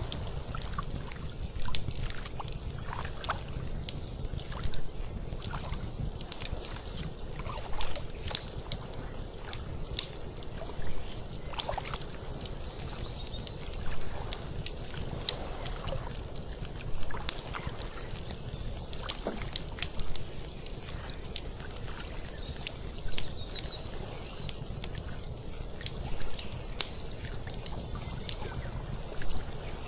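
Lake water lapping and sloshing in a slow rhythm, swelling about every three seconds. Under it runs the constant crackle and pop of an outdoor wood fire, over a low steady rumble.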